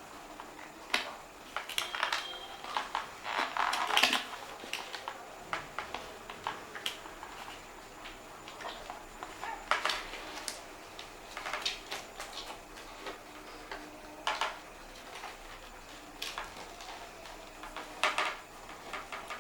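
Irregular clicks, taps and short rustles of small plastic parts and packaging being handled.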